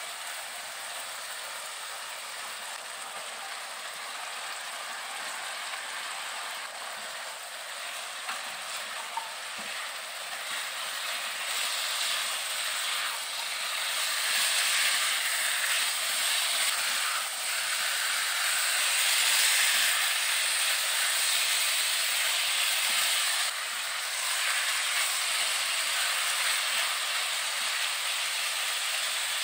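Chicken pieces sizzling in hot oil in a wok as they are stir-fried with a spatula. The sizzle grows louder about halfway through, once carrot, onion, wood ear mushroom and tofu skin are in the wok being stir-fried.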